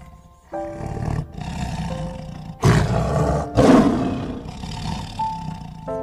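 Tiger roaring, with two loud roars a little past the middle and rougher, quieter growling around them, over soft background music with piano notes.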